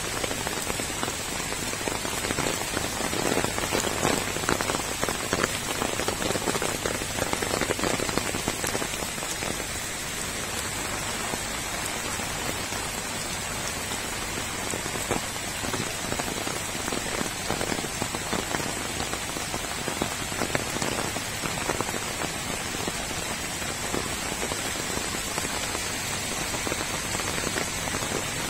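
Steady rain falling on waterlogged ground, puddles and rows of potted seedlings, a dense hiss of drops. It is a little louder for several seconds soon after the start.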